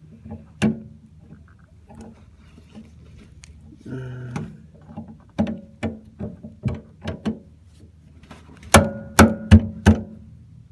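Sharp metallic knocks and clicks from hand work on a boat steering cable, with a string of taps in the middle and four loud strikes in quick succession near the end.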